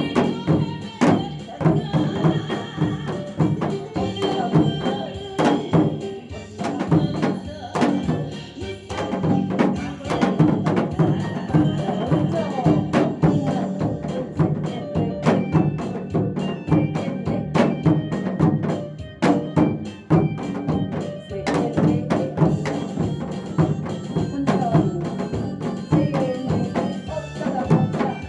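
Janggu hourglass drum struck in a quick, busy rhythm over a disco-style trot backing track, with sharp stick clicks among the deeper drum strokes.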